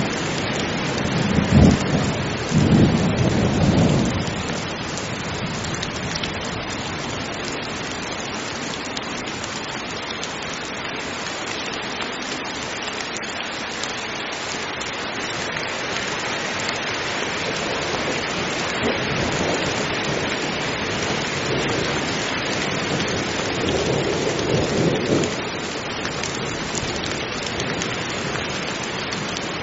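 Heavy rain falling steadily, with thunder rumbling about two seconds in and again some twenty seconds later.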